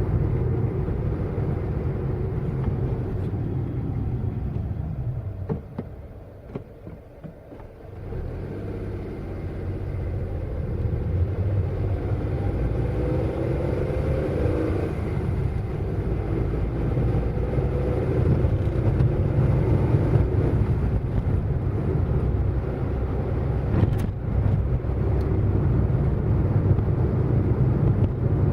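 Car engine and road noise while driving, a steady low rumble. About six seconds in it drops away for a couple of seconds, then builds back, and around twelve seconds in the engine's pitch wavers up and down.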